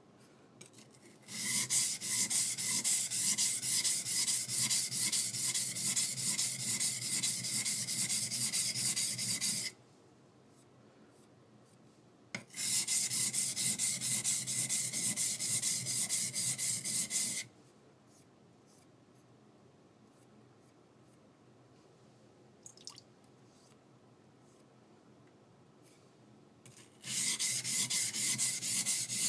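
The flat back of a high-speed steel skiving knife being rubbed back and forth on a coarse whetstone, a rapid rasping scrape as the steel is ground flat. It comes in three bouts: about a second in to nearly ten seconds, again for about five seconds from about twelve seconds in, and again near the end.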